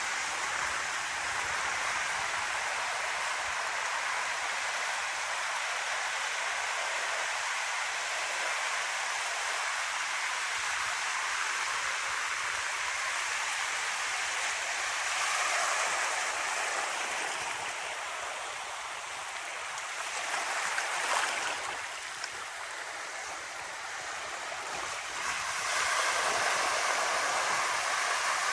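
Ocean surf washing onto a beach: a continuous rushing hiss of breaking waves that swells and eases, louder about halfway through and again near the end.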